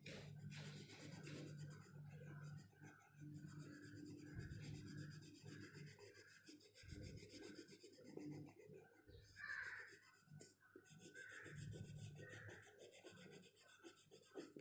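Faint back-and-forth scribbling on paper as a drawing is coloured in black or gray, in a steady run of strokes about two a second.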